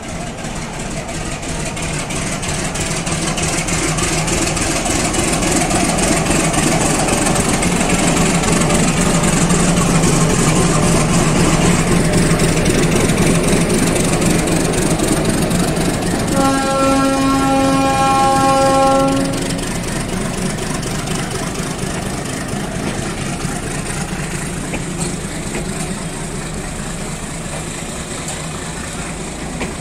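Diesel locomotive pulling a passenger train out of the station, its engine hum and running noise growing louder as it passes. About two-thirds of the way in, one steady horn blast lasts about three seconds, then the coaches roll past with a steady rumble.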